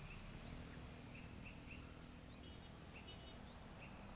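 Faint outdoor ambience: scattered short bird chirps over a low, steady rumble of background noise.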